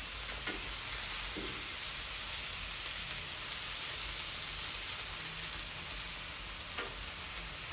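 Italian sausages and onions sizzling on a Blackstone flat-top griddle, a steady frying hiss, with a few faint clicks.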